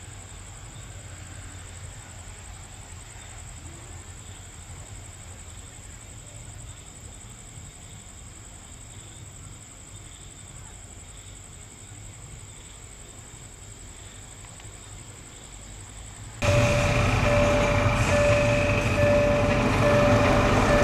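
Railway train noise: a steady low rumble with a thin high whine. About three-quarters of the way in it cuts abruptly to a much louder train sound carrying a repeating, evenly pulsed tone.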